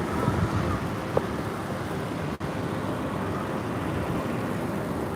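Steady city street traffic noise: a low rumble and hiss of passing cars, with a short sharp knock about a second in and a brief cut in the sound about halfway.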